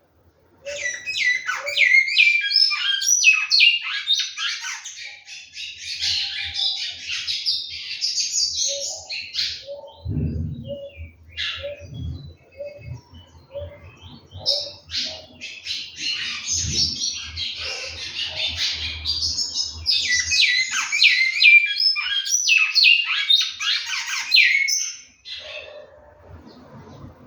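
Bicudo (great-billed seed-finch) singing: two long, fast, warbling song phrases of quick high notes, the second starting after a pause of a few seconds.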